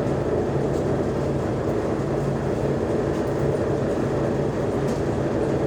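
Mercedes-Benz O345G articulated bus's diesel engine running at a steady, unchanging pitch while the bus is under way.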